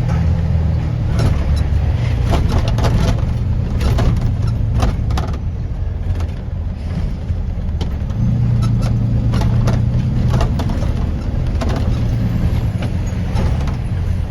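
Vehicle running with a steady low rumble, with frequent light knocks and rattles over it.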